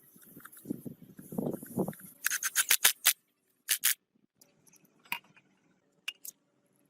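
Hand work at a bench: rustling and scraping, then a quick run of about six sharp snips or clicks, one more a moment later, and a few single clicks near the end.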